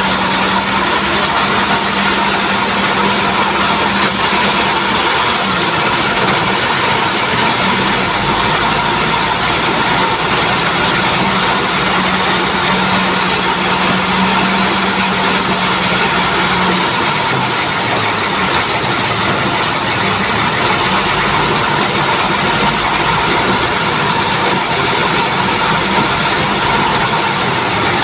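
Truck engine running steadily at idle, with a steady low hum that drops away about seventeen seconds in.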